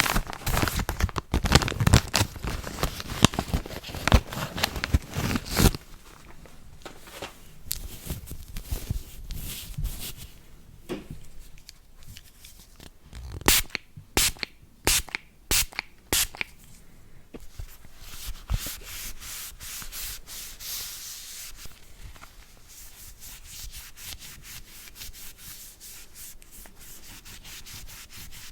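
Close-miked brush scrubbing and rubbing on the surface of a mobile device being cleaned. Dense scrubbing comes first, then a cluster of sharper, louder strokes about halfway, and near the end a quick, even run of lighter strokes.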